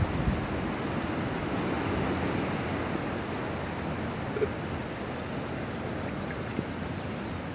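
Steady rushing wind noise buffeting the microphone, from a strong wind.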